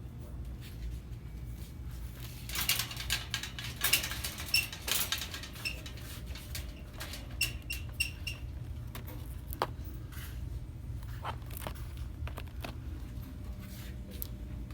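Rustling and clicking of objects being handled, with short high squeaks, twice in a quick run of several, over a steady low hum.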